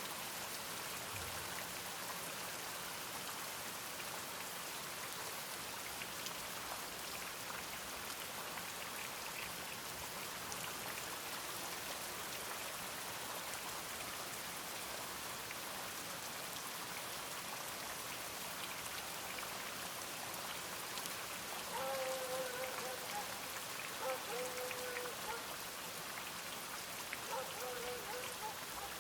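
Steady rain falling, an even patter. Near the end, three short, level-pitched sounds each about a second long rise over the rain.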